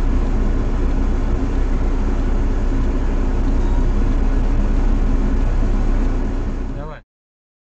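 Car running on the road, with steady engine and tyre rumble inside the cabin, which cuts off abruptly about seven seconds in.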